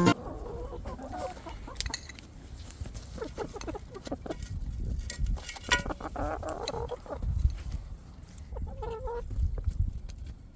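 Chickens clucking, with short calls scattered through and a louder run of calls twice.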